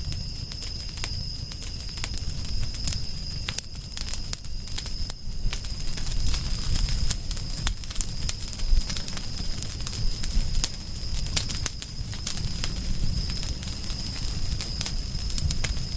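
Campfire burning with dense, irregular crackles and pops of wood over a low rumble of flames. A steady high, thin tone runs in the background.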